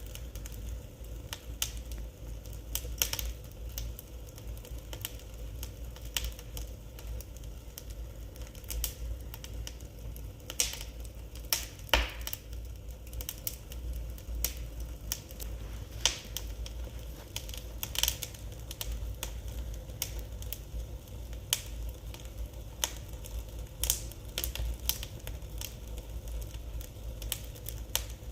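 Wood fire burning in a fireplace, crackling with irregular sharp pops and snaps, a few of them louder than the rest.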